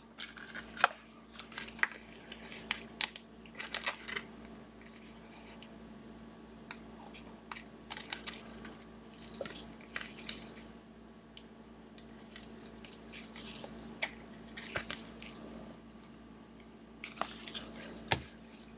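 Trading card packs and cards being handled: crinkling wrapper, quick rustles and scattered light clicks.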